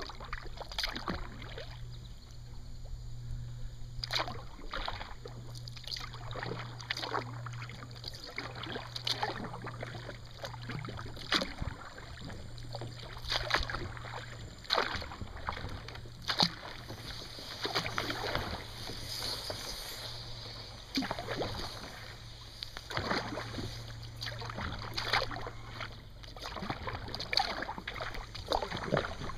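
Kayak paddle dipping into the water, with splashes and drips at each stroke, irregularly about every one to two seconds, over a steady low hum.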